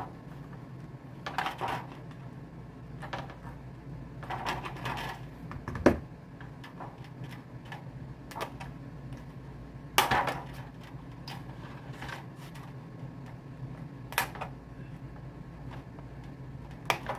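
Scattered sharp clicks and clacks of a hand-held leather hole-punch plier squeezing holes through the piece, with some handling clatter, over a low steady hum; the sharpest snaps come about 6 and 10 seconds in.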